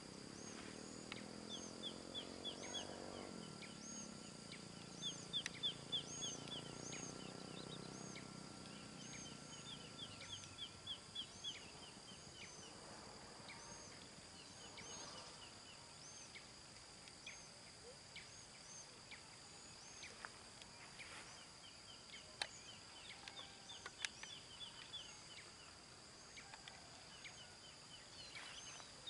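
Birds chirping in quick repeated trills, over a steady high-pitched whine. A faint low hum fades out about ten seconds in.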